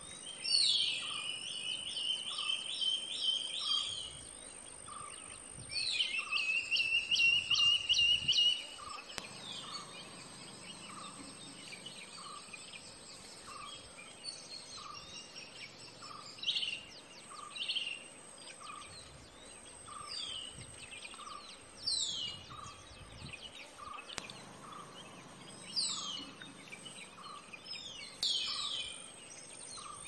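Birds calling: fast runs of whistled notes, then single downward-slurred whistles every few seconds, over a steady high tone.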